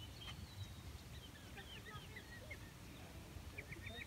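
Birds calling faintly, scattered short chirps, then a quick run of short repeated calls near the end, over a low steady rumble.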